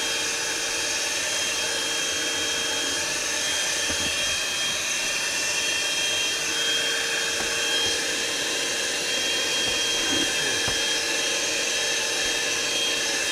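Einhell PXC TE-VC 18 Li cordless hand-held vacuum cleaner running steadily, its motor giving a constant airy rush with a steady high whine. A couple of faint knocks come through, about four and ten seconds in.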